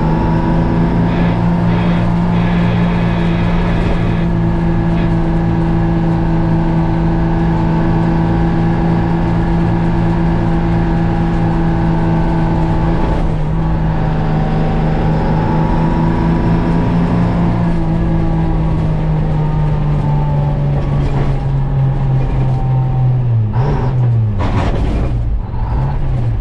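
The Detroit Diesel two-stroke engine of a GMC Crackerbox cabover semi running under way, its note holding fairly steady with a brief break about halfway through. Near the end the engine pitch drops, then picks up again.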